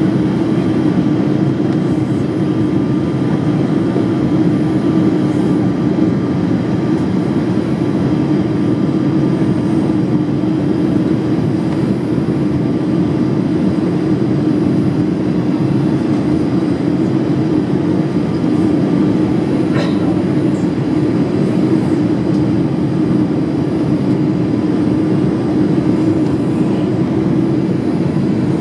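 Steady cabin noise inside a Boeing 787 Dreamliner during its landing: even engine and airflow noise with a few faint steady tones, and one faint click about 20 seconds in.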